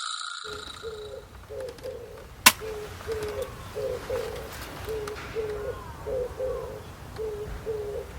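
A bird calling with a steady series of short, low, coo-like notes, about two to three a second and some in pairs. A single sharp click comes about two and a half seconds in.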